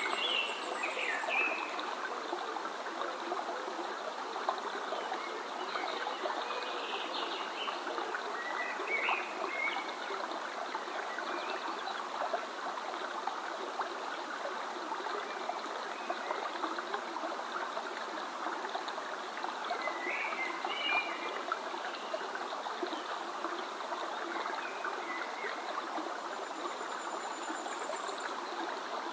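Stream running steadily, with birds chirping in short scattered bursts over it and a thin high whistle near the start and again near the end.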